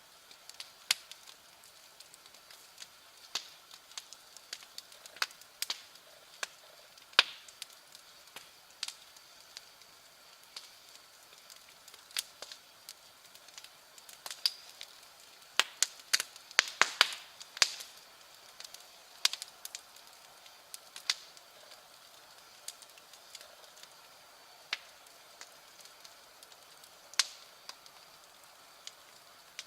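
Wood bonfire crackling, with irregular sharp pops and snaps and a quick flurry of louder ones about halfway through.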